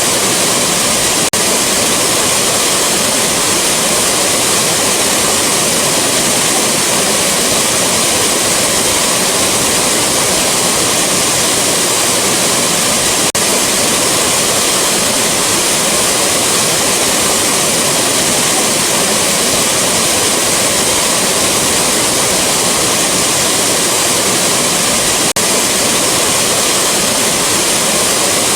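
Rushing waterfall: a loud, steady roar of falling water. Three brief faint glitches come about twelve seconds apart.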